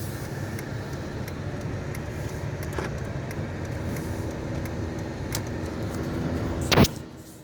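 Car driving, with a steady low rumble of engine and road noise and a few light clicks. A single sharp knock comes near the end, after which the rumble drops quieter.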